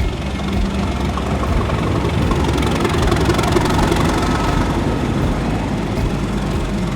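Railway locomotive's engine running with a steady low throb and fast rattling ticks, growing louder towards the middle and easing off again.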